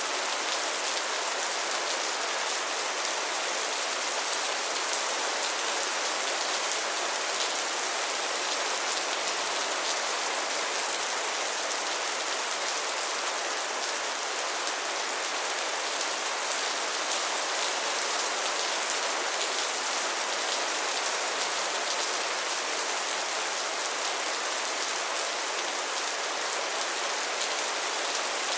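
Steady rain falling, an even hiss with fine crackle of drops hitting a surface.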